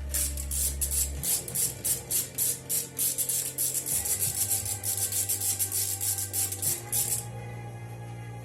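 Rapid back-and-forth scraping on a part, about four strokes a second, stopping about seven seconds in, over background music with a low bassline.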